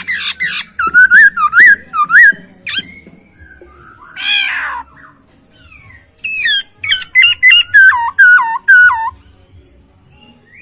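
Poksay Hongkong laughingthrush singing loudly in clear whistled phrases. Two quick runs of repeated hooked, up-and-down notes, one at the start and one from about six seconds in, are separated by a single harsher call near the middle.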